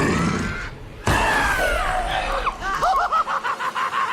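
A high-pitched, inhuman-sounding shriek starts abruptly about a second in, falling in pitch, then breaks into a rapid wavering, about five pulses a second.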